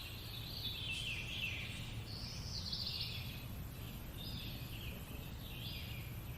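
A bird singing in a series of short chirping phrases, about four in all, over a steady low background rumble.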